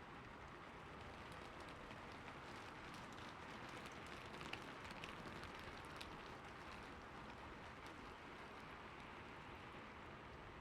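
Steady, soft rainfall, with the patter of separate drops a little denser a few seconds in.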